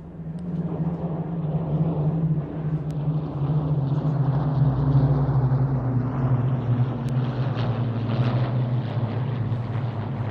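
Second World War Spitfire and Hurricane fighters flying past in formation, their piston engines droning. The sound swells about a second in, is loudest around the middle, and the pitch sinks slightly as the aircraft pass.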